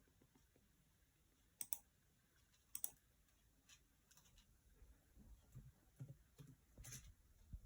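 Cockatiel grinding its beak: faint clicks and scraping, with two sharper clicks about two and three seconds in, then a quicker run of small grinding clicks in the second half. Beak grinding is the sign of a relaxed, content bird.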